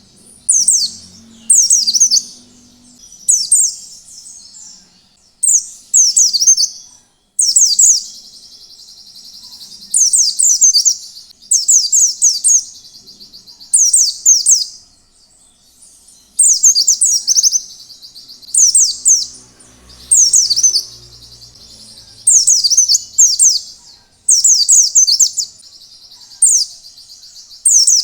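White-eye (pleci) singing: short, very high twittering phrases of quick falling notes, repeated about every one to two seconds, with a softer continuous trill between some phrases.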